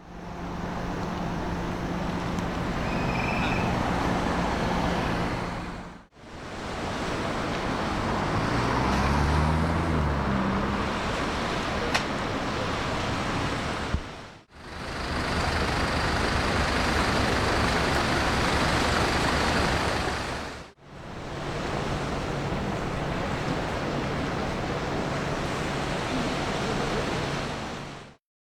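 Steady engine noise over a rushing hiss, cut into four shots that each fade in and out; about nine to eleven seconds in, an engine's pitch rises and falls.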